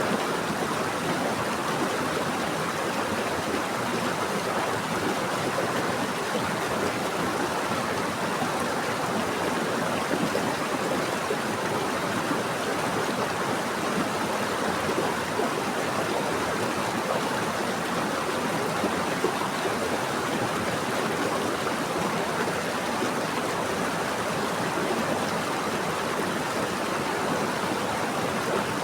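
Running water in a stream, flowing steadily as a constant, even rush with no breaks or changes.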